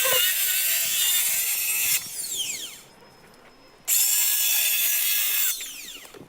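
Handheld power saw cutting into the plywood roof decking, run twice with a pause of about a second between; each time it is released its blade winds down with a falling whine.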